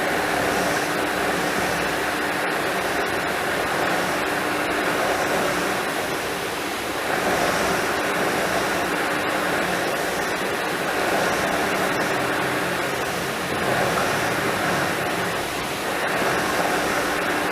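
Philips vacuum cleaner running steadily, with a low hum under its rushing suction noise. The suction sound swells and eases every few seconds as the nozzle moves over the dust and rubber bands.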